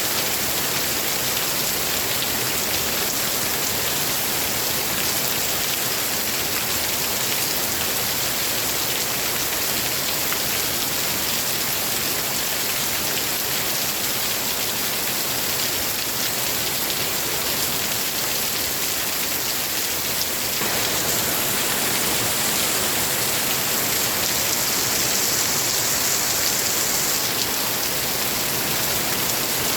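Steady rain falling, a dense continuous hiss; it gets a little heavier and brighter about two-thirds of the way through.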